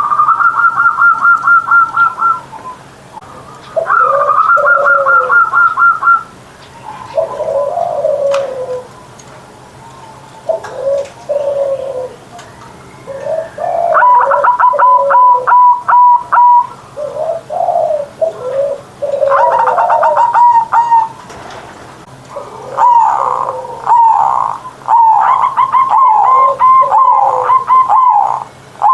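Zebra dove (perkutut) singing: phrases of rapid staccato cooing notes alternating with lower, drawn-out coos, repeated with short pauses between phrases.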